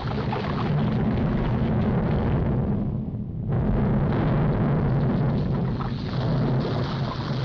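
Cartoon sound effect of a volcano erupting: a loud, continuous rumble that thins briefly about three seconds in before carrying on.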